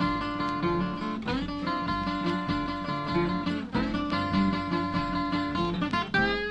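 Two acoustic guitars playing a country-blues instrumental break: sustained treble notes ring over a repeating bass figure. Near the end a note is bent upward.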